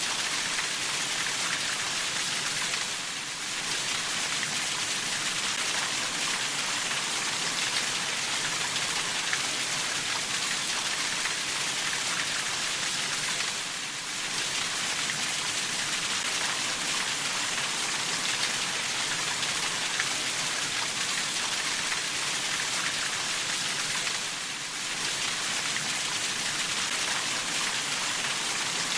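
Steady, dense rainfall pattering on a surface, a continuous hiss that dips briefly in level three times, about ten seconds apart.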